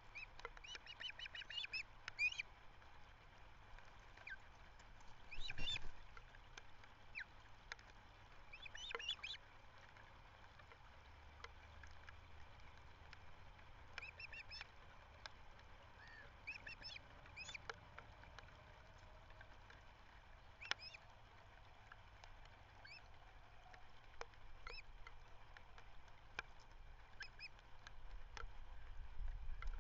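Ospreys calling: short runs of sharp, high, whistled notes, several in quick succession, repeated every few seconds. A low rumble rises near the end.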